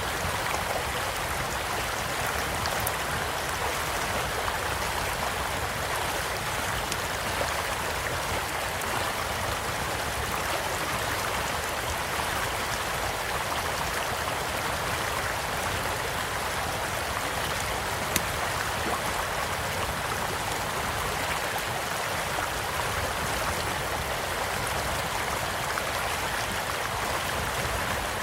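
A stream flowing steadily, with a campfire crackling over it in small scattered pops; one sharper pop comes about two-thirds of the way through.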